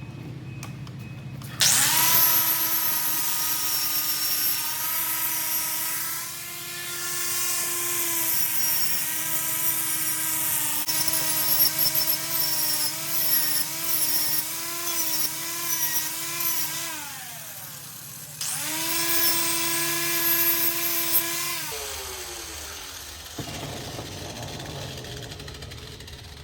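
Handheld electric power tool running in two long stretches, its motor whine wavering in pitch as it is loaded, with a hissy high edge. The second run ends in a falling whine as the motor spins down.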